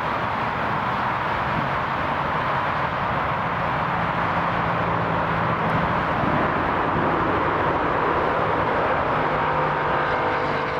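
Jet airliner engines running, a steady rush of noise with a faint whine held through it. It swells slightly in the second half.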